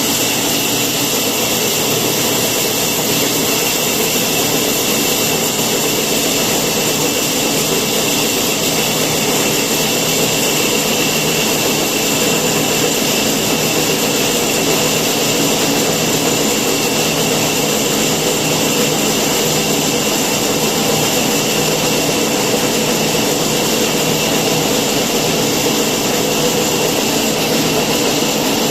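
A woodworking machine's motor running steadily, with a constant whine over its noise and no change in pitch or load.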